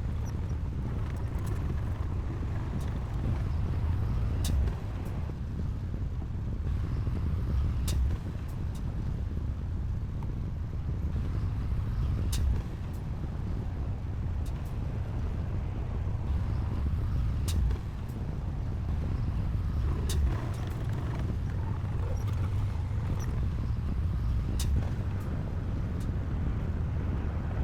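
Heavy diesel earthmoving machinery running steadily with a low rumble, with a sharp click every few seconds.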